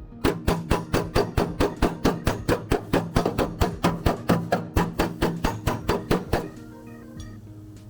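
A fast, even run of hammer strikes, about four a second, over background music; the strikes stop about six seconds in.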